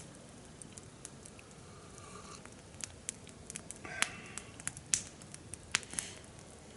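Small wood campfire crackling, with irregular sharp pops and snaps over a low hiss.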